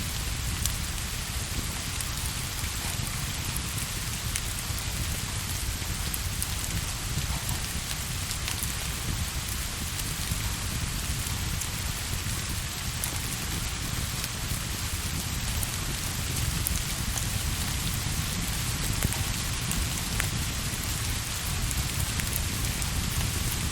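Steady rain falling, with scattered sharp ticks of drops through it and a low rumble underneath.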